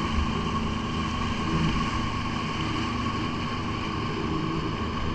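Jet ski engine running steadily while cruising, with a steady high whine over the engine note.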